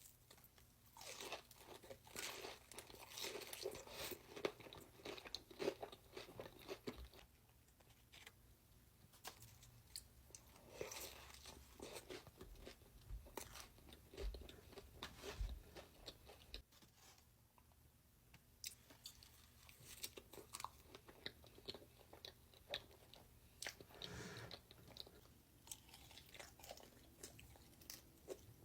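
A person chewing crunchy food up close to the microphone, with crisp crackling bites and chews in bouts separated by quieter pauses.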